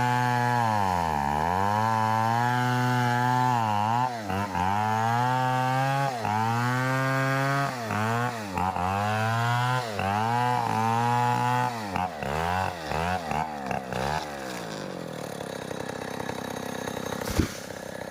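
Two-stroke chainsaw at high revs cutting into a coconut palm trunk, its engine note dipping again and again as the chain bites into the wood. After about fourteen seconds the engine sound drops away to a quieter running, and there is a single sharp knock near the end.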